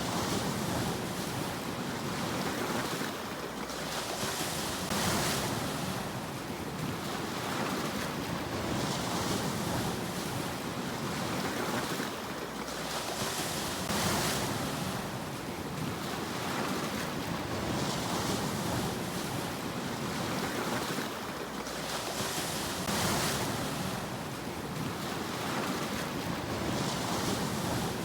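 Sea waves washing onto the shore: a steady rushing surf that swells into a louder hiss every four to five seconds as each wave breaks.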